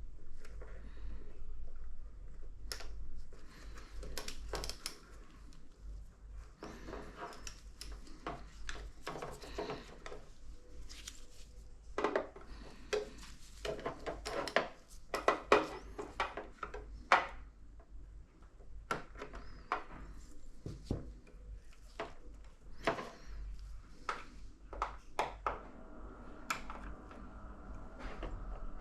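Irregular clicks, taps and clatter of small hard objects, tools and parts being handled, busiest in the middle, over a faint steady low hum. A few seconds before the end a steady pitched hum starts.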